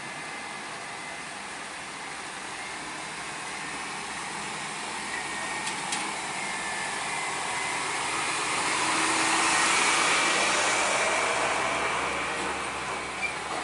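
Heavy truck going by, its engine and tyre noise swelling to a peak about two-thirds of the way through and then fading.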